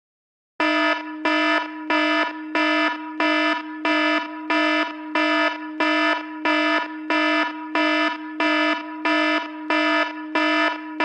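An iPhone ringtone playing: an alarm-like pulsed tone with a steady low note underneath, repeating about one and a half times a second, starting about half a second in.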